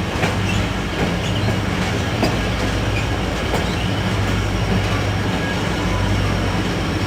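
Passenger train running along the track: a steady rumble with a low hum and a few faint clicks from the wheels.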